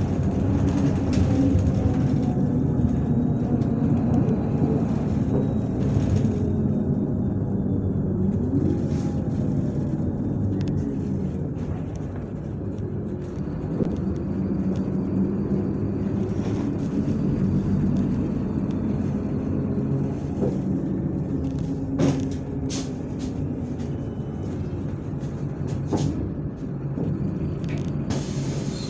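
Inside a MAZ-103 city bus under way: the diesel engine and drivetrain run steadily, their pitch sliding down and back up as the bus slows and pulls away, with a couple of sharp knocks or rattles near the end.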